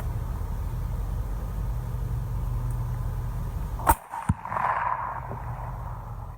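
A steady low rumble that cuts off at a sharp crack about four seconds in. A second crack follows, then a hiss that fades away.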